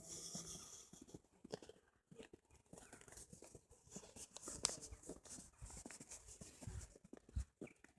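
Quiet outdoor ambience with faint, scattered clicks and knocks, one sharper click about two-thirds of the way through.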